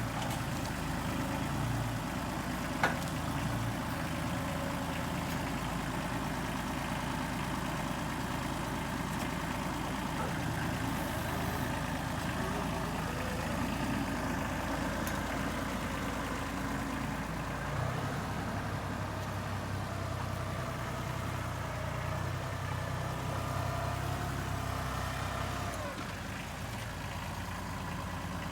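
Tractor engine running steadily; its note shifts about eighteen seconds in and eases near the end. A single sharp knock comes about three seconds in.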